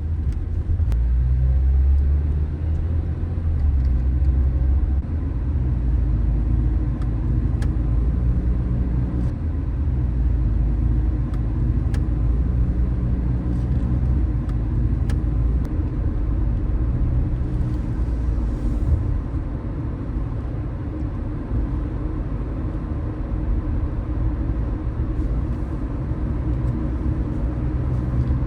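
A car driving along: a steady low rumble of engine and road noise, with a few faint ticks.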